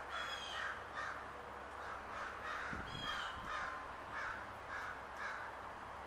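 Birds calling: a rapid run of short, harsh calls, roughly three a second, with a thin high whistled note near the start and again about three seconds in.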